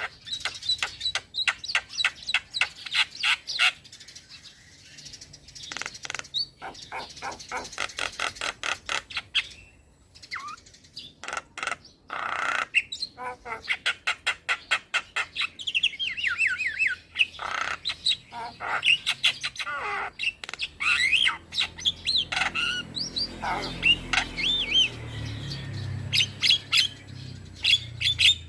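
A young male Javan myna singing in a long varied song: fast runs of clicking chatter, harsh rasping notes and whistled notes that glide up and down.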